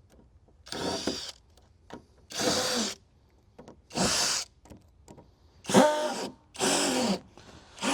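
Power drill run in six short bursts of about half a second each, its motor whine rising and falling in pitch with each trigger pull, as screws are driven into the shed's deck boards.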